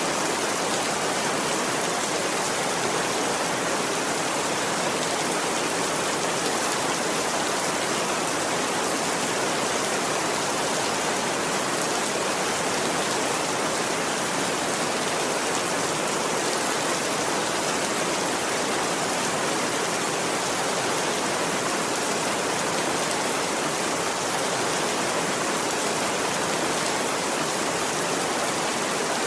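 Steady rain: an even, unbroken hiss that holds at the same level throughout.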